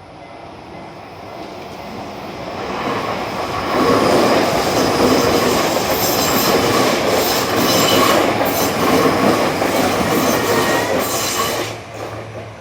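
A Tokyu Oimachi Line electric train passing close by. Its noise builds over the first few seconds, wheels clatter over the rail joints for about eight seconds as it goes past, and the sound falls away sharply near the end.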